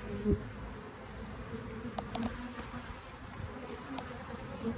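Honey bees buzzing steadily around an open hive during a frame inspection, the colony agitated: 'getting rather angry'. A sharp knock comes near the start, and faint clicks about two seconds in.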